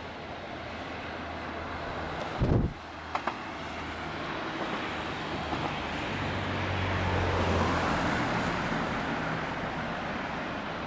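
Jet airliner engine noise, a steady rushing rumble that swells to a peak about three-quarters of the way through and then eases off. A gust of wind thumps on the microphone about two and a half seconds in, the loudest moment, followed by two small clicks.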